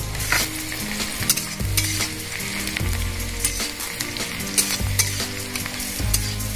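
Food sizzling as it fries in oil in a pan, with irregular sharp crackles.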